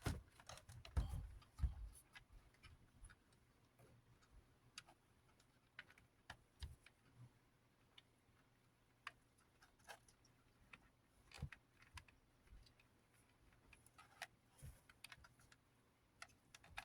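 Scattered light clicks and taps of a small plastic box fan's parts being handled, irregular and quiet, a few louder knocks among them.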